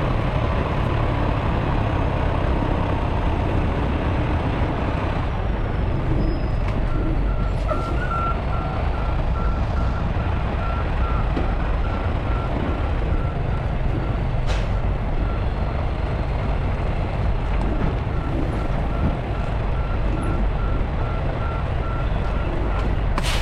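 Heavy truck's engine running with a low rumble, and a reversing alarm beeping steadily from about seven seconds in until near the end; a couple of brief sharp sounds, one midway and one at the end.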